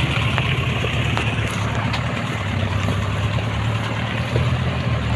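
The truck engine fitted in a Toyota Land Cruiser 4x4 hardtop runs steadily at low revs, with a few faint clicks and knocks over it.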